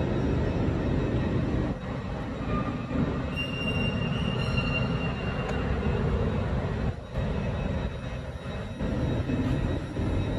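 Steady hum and rumble of a Lumo electric train (a Hitachi Class 803) at the platform. A faint high whine comes in for a moment about four seconds in.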